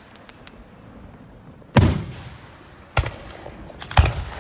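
Fireworks display: faint crackles at first, then three loud booms of aerial shells bursting, about a second apart, the first nearly two seconds in.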